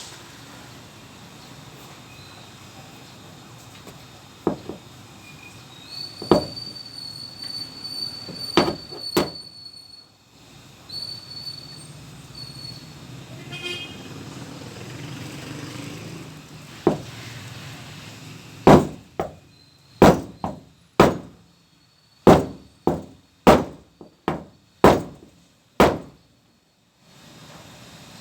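Hammer blows on a van's sheet-metal body panel: a few separate strikes, then a quick run of about ten blows near the end. A thin high steady tone sounds for a few seconds early on.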